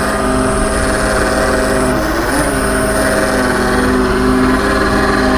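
Ram 5500 bucket truck's Cummins diesel running steadily while its hydraulic aerial boom is worked. There is a steady low rumble with several held tones, and a high thin whine that breaks off for a moment about two seconds in and then resumes.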